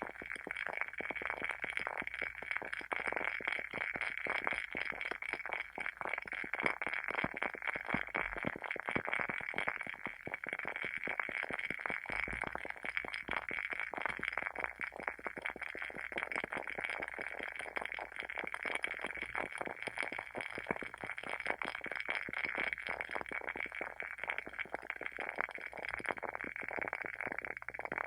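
WoodWick candle's wooden wick burning with a steady, rapid crackle of many small pops, like a tiny bonfire.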